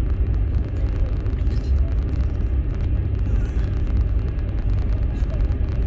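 Interior of a moving platzkart sleeper railway carriage: the train's steady low rumble from the wheels on the rails.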